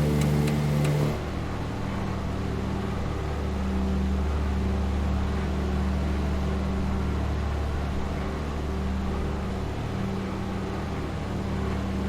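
Steady drone of a DC-3's engines in flight: a low hum with a second tone that swells and fades every few seconds. About a second in, a higher, ticking layer cuts off abruptly.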